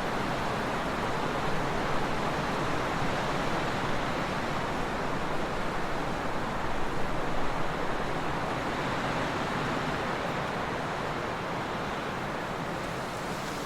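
Trade winds blowing steadily, a little gustier around the middle.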